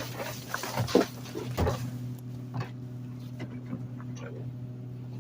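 Garbage truck running with a steady low hum, with a few sharp knocks and crackles from trash in the rear hopper in the first two seconds, then only scattered light ticks.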